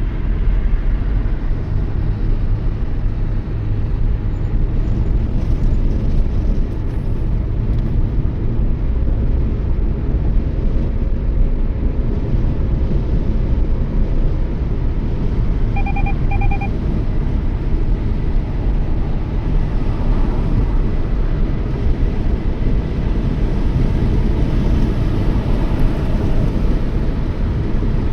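Toyota Yaris driving at speed: a steady low rumble of tyres and engine. About halfway through come two short beeps, close together.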